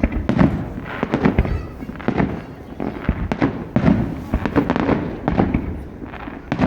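Aerial fireworks shells bursting in quick succession, a sharp bang about once a second with low rumbling between.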